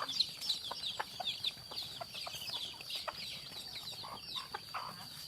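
Chickens peeping and clucking: a dense stream of short, high, falling peeps, several a second, with scattered short, lower clucks.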